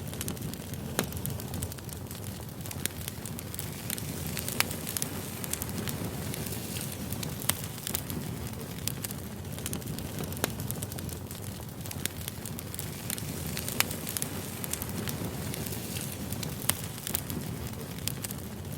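Campfire burning: a steady low rush of flame with frequent irregular crackles and a few louder pops.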